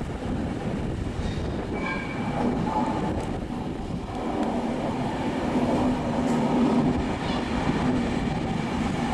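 A train at a station platform, its rumble joined by a steady low hum from about two seconds in, growing slightly louder in the second half.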